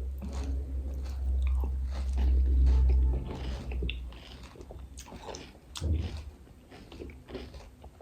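Close-up eating of panipuri: a person biting and chewing the crisp puri shells, with scattered crunches and wet mouth clicks. A deep low rumble, the loudest part, runs through the first three seconds.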